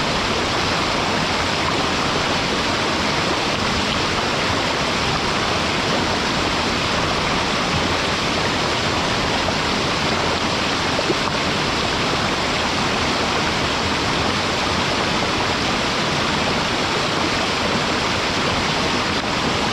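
Small mountain waterfall pouring steadily into a pool, a constant even rush of falling water.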